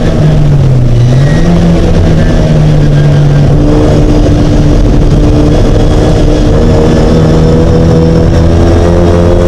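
Mini race car engine running loud and steady. Its pitch dips briefly about a second in, then holds and slowly rises.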